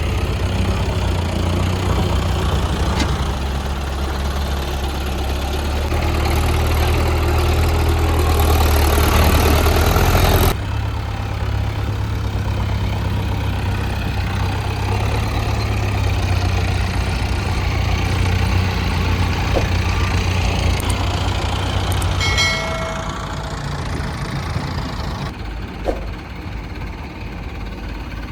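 Diesel engines of a crawler excavator and farm tractors running steadily at a low, even hum, with an abrupt change in the sound about ten seconds in and a short high tone about two thirds of the way through.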